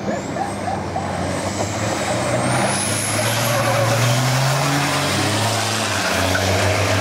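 Racing truck's turbo diesel engine running hard and getting louder, with a thin high whine that rises in pitch partway through.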